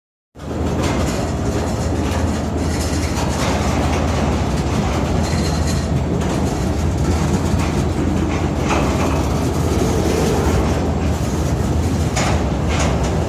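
Empty freight cars of a Norfolk Southern train rolling past: a steady, loud rumble and rattle of the cars over the rails, with a few sharp metallic clanks in the second half.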